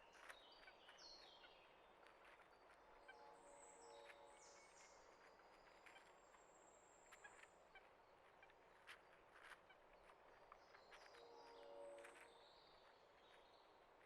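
Faint outdoor ambience of small songbirds chirping in quick descending runs, with scattered sharp clicks. Twice a lower, longer call sounds, about three seconds in and again near the end.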